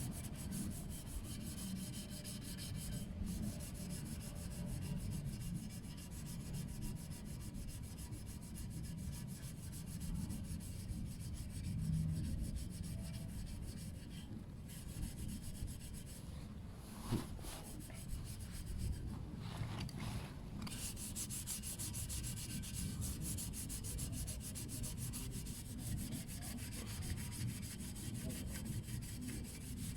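Brillo pad scrubbing a blackened stainless steel motorcycle exhaust pipe, a steady rapid scratching that stops briefly a few times around the middle, scouring off the black deposit.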